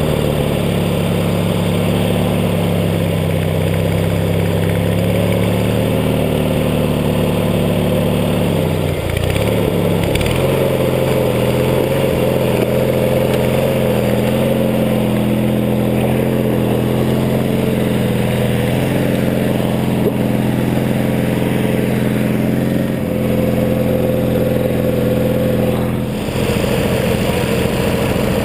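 Riding lawn tractor's small engine running under way, its speed rising and falling as it is driven, with a brief dip about nine seconds in.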